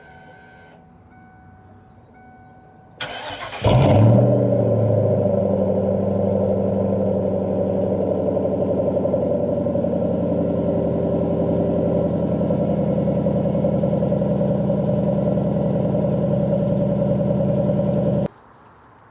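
Ford Mustang SN95 4.6-litre two-valve V8 cold start: the starter cranks briefly, the engine catches with a short flare in revs, then settles into a steady, loud fast idle through the dual exhaust. The sound cuts off suddenly near the end.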